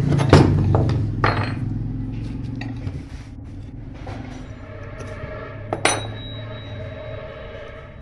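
Metal water-pump parts clinking and knocking as they are handled and fitted, with a few sharp, ringing knocks: one just after the start, one at about a second and a half, and one near six seconds.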